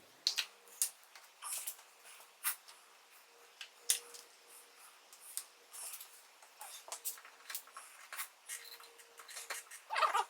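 Irregular light clicks, taps and scratchy rubs of small objects being handled, over a faint steady hum, with a louder cluster of handling noise near the end.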